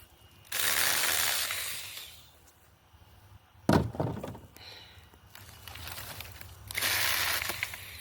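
Handheld mini battery chainsaw cutting through branches in two short bursts, one early and one near the end. About halfway through there is a single loud, sharp crack.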